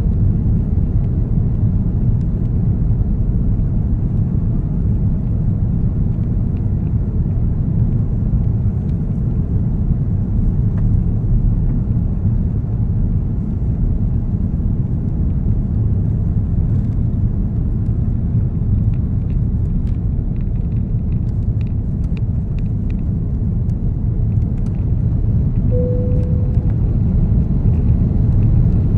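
Steady low rumble of engine and airflow noise inside the cabin of an Airbus A330-900 airliner, growing slightly louder near the end. A short steady tone sounds once, shortly before the end.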